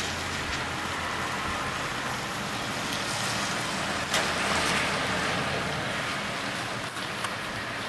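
Steady rain falling, with a car passing on the wet road: the hiss of its tyres swells in the middle and fades.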